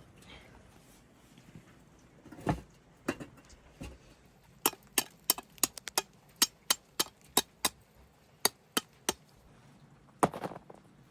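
A run of sharp chopping strikes, about three a second, after a few separate knocks, followed near the end by a brief scuffing noise.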